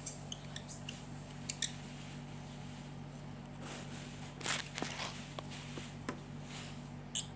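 Pet lovebirds moving about: scattered light clicks, taps and short rustles, busiest about halfway through, over a steady low electrical hum.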